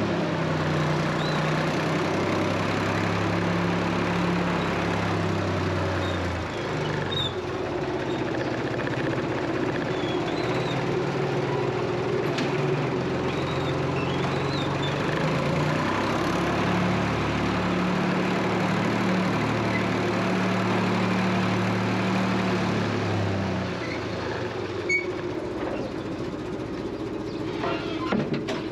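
A vehicle engine running steadily, its pitch stepping up and down a few times as the engine speed changes, with faint bird chirps over it.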